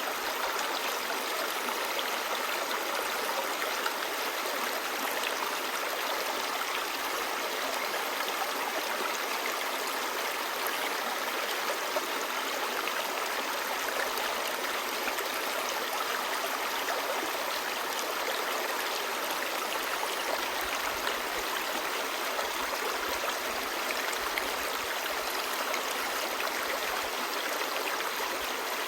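A clear, shallow stream babbling over rocks: a steady, even rush of running water, flecked with small splashes.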